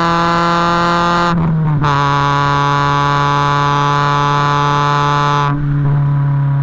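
Honda D16Z6 four-cylinder engine running through a 4-2-1 header and custom 2.35-inch exhaust, held at steady revs with a droning note. About a second and a half in, the sound breaks briefly and comes back at a slightly lower pitch; around five and a half seconds in it turns duller as the higher overtones drop away.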